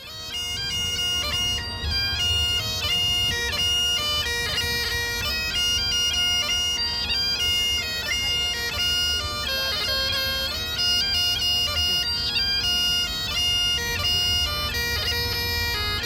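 Bagpipes playing a tune: the steady drones hold under a stepping chanter melody, with a low rumble underneath.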